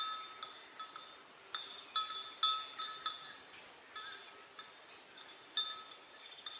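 Small metal bell on a water buffalo clinking unevenly, about two to three strikes a second, each with the same bright ringing pitch.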